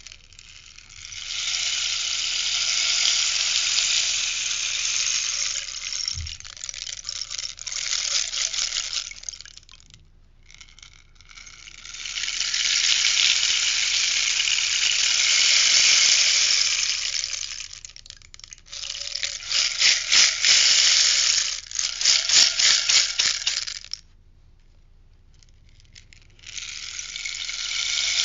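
Rainstick turned end over end, its beads pouring through in long rushing cascades of several seconds each, with a stretch of quick short rattles about two-thirds of the way through where it is shaken back and forth.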